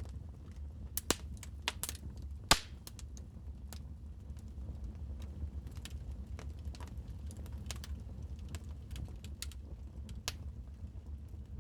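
Wood fire crackling in a fireplace: irregular sharp pops and snaps, the loudest about two and a half seconds in, over a low steady rumble.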